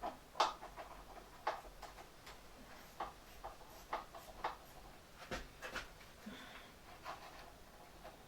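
Irregular light metallic clicks and knocks, about one or two a second, from hand tools and loose parts being handled while a chop saw is dismantled.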